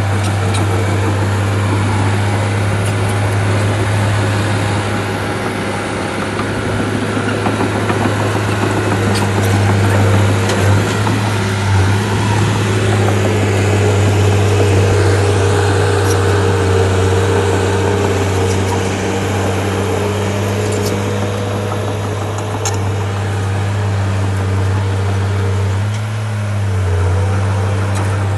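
Shantui bulldozer's diesel engine running steadily with a low drone. The engine note dips briefly a few times, as it does when the load changes, and there are a few faint clanks.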